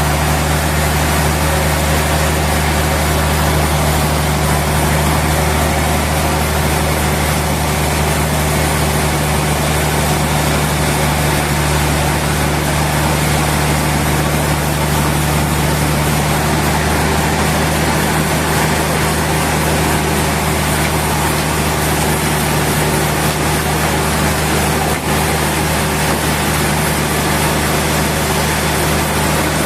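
Sawmill machinery running steadily: a constant low engine-like hum over an even hiss, unchanging throughout.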